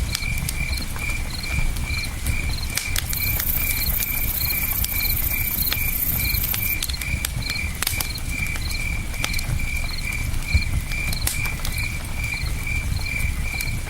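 Campfire crackling with scattered sharp pops, and a cricket chirping steadily about two to three times a second, over a low, even rush of river water.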